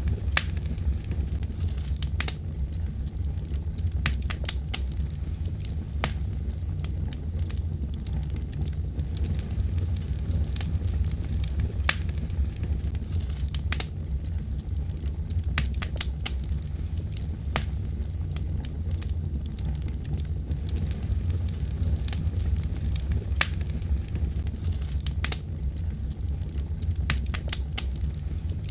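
Wood fire burning with a steady low rumble of flames and scattered sharp crackles and pops, now and then several in quick succession.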